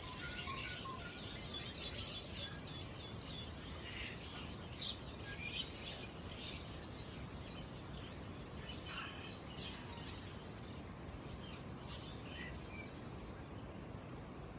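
Many caged songbirds chirping and trilling, short calls scattered and overlapping, over a steady high-pitched hiss.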